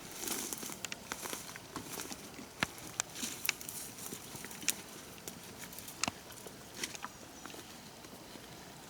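Soft rustling broken by scattered sharp clicks and snaps, a few seconds apart and irregular.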